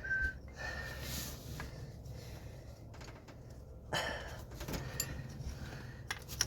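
Faint clicks, taps and scraping of hands working a sensor and its wire loose in a car's engine bay, over a low steady hum. A few sharper ticks come about four seconds in and near the end, and a short whistled note sounds at the very start.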